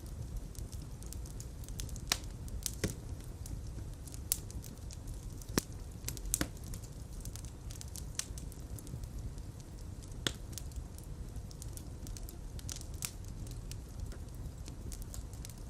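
Fire burning in a fireplace: a steady low rumble of flames with irregular crackles and pops, a few of them sharper and louder than the rest.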